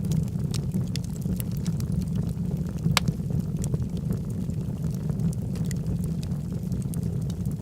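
Wood fire burning in a fireplace: a steady low rumble of the flames with irregular sharp crackles and pops from the logs, one louder pop about three seconds in.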